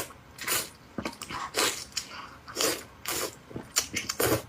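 A person biting and chewing a mouthful of egg, short sharp mouth sounds coming about twice a second.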